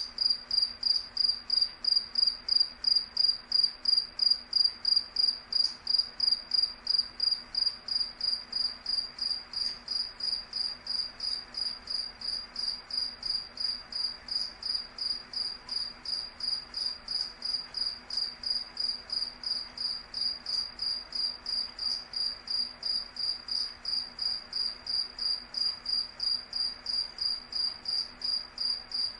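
A cricket chirping in a steady, even rhythm of high, clear chirps, about three a second.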